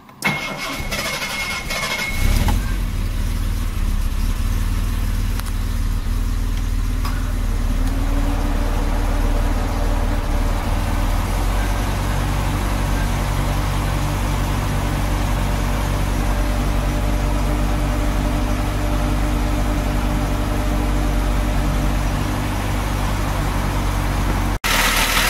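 Car engine cranked by the starter and catching after about two seconds, then idling steadily, its note shifting about eight seconds in. It is run so the A/C compressor's leaking front shaft seal gets oil on it again and holds the refrigerant.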